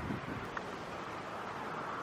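Wind buffeting the microphone in a short gust at the start, then a steady even rushing hiss.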